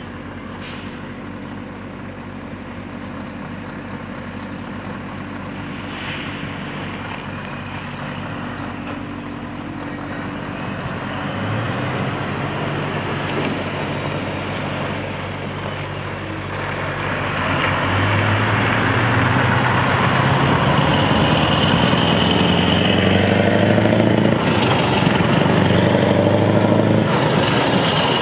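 Scania R500 V8 diesel truck engine with an open, unsilenced exhaust, running steadily at first and then revving and pulling harder. It grows steadily louder, with the engine note rising in the second half. A brief hiss of air comes near the start.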